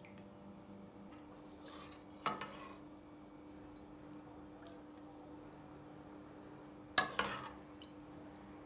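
Kitchen clatter of dishes and utensils: a clink about two seconds in and a louder clatter about seven seconds in, over a steady low hum.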